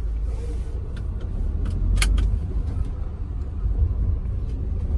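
Car on the move, heard from inside the cabin: a steady low road and engine rumble, with a sharp click about two seconds in.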